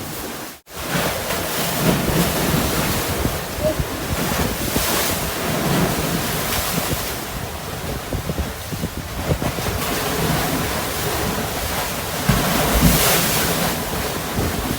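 Sea waves washing on a beach, swelling and falling, with wind buffeting the microphone. The sound cuts out for an instant about half a second in.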